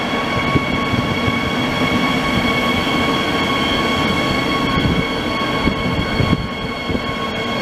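Israel Railways Bombardier TRAXX electric locomotive and its double-deck coaches rolling slowly past at the platform: a continuous low rumble of wheels on the rails under a steady high-pitched squeal that holds one pitch.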